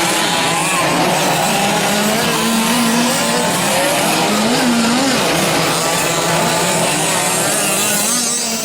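Several 1/5-scale gas-powered RC trucks' small two-stroke engines running and revving together, their pitches rising and falling over one another.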